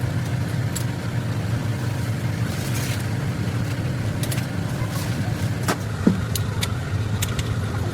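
A steady low engine-like rumble, with scattered light clicks and taps over it and one louder knock about six seconds in.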